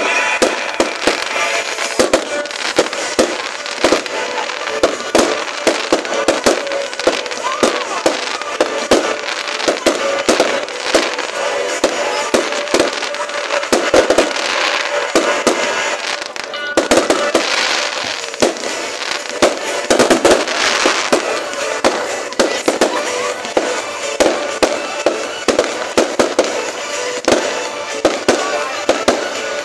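Fireworks display: a dense, continuous barrage of bangs and crackling, with a brief lull about halfway through.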